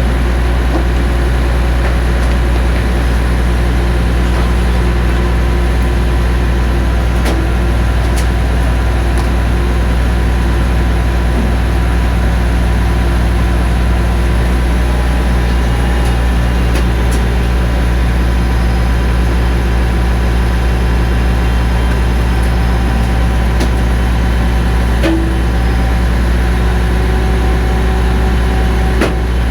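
Heavy diesel engine idling steadily at an even, unchanging speed.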